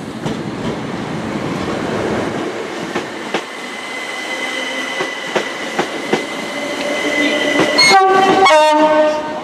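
Class 377 Electrostar electric multiple unit pulling out, its running noise building with a steady high whine and wheels clicking over rail joints. About eight seconds in, the Network Rail MPV sounds a loud two-tone horn: a higher note, then a lower one.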